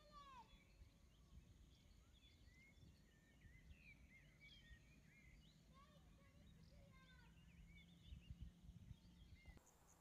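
Faint birdsong: many short chirps from several birds over a low rumble of wind. Guitar music comes in just before the end.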